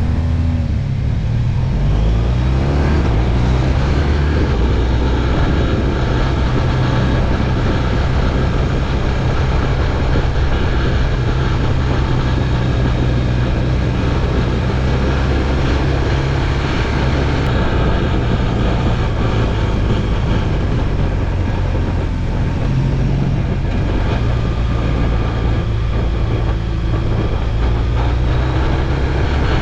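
BMW R1200GS Adventure's boxer-twin engine running under way, with wind and road noise. It picks up speed in the first couple of seconds, then holds a steady cruise.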